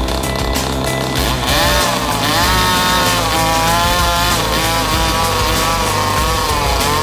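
Small 49cc engine running with its speed rising and falling repeatedly, a high buzzing pitch that climbs and drops every second or so.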